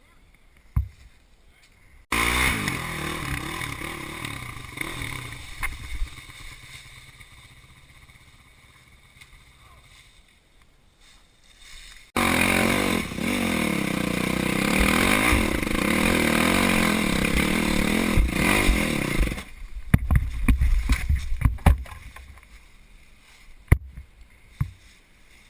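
Dirt bike engines revving in two shots that each start abruptly: the first fades away over several seconds, the second runs loud with its pitch rising and falling. Near the end come a couple of seconds of clattering knocks, then a single sharp knock.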